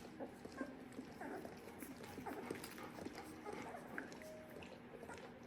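Faint squeaks and whimpers of two-week-old Labrador puppies: many short, scattered chirps, with one briefly held squeak about four seconds in.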